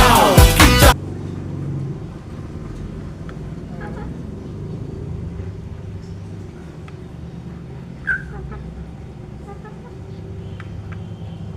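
Pop music cuts off about a second in, leaving a steady low rumble. A few short chicken calls sound over it, the clearest about eight seconds in.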